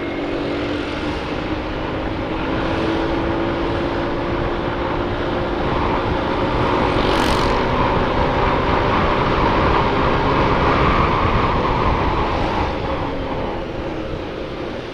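Motorcycle engine running steadily while riding, with wind buffeting the microphone. The sound swells a little in the middle and eases off near the end.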